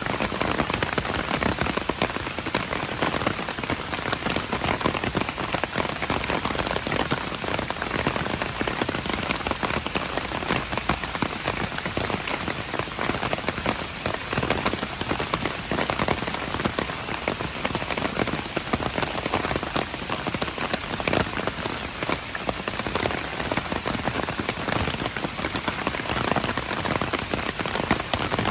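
Steady rain, a dense patter of raindrops that holds the same level throughout.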